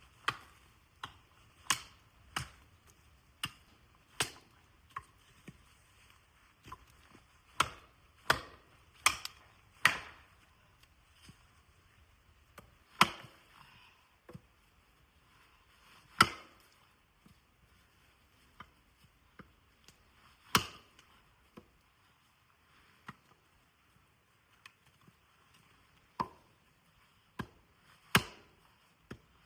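Wood being chopped: a series of sharp, single chopping strikes at an irregular pace, roughly one or two a second at first and more spread out later, some much louder than others.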